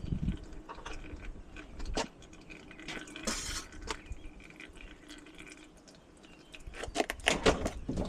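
Cold engine oil draining from a 2006 Ford Focus's oil pan into a catch pan, trickling and dripping slowly because the oil is not warm. Scattered light clicks, with a cluster of them near the end.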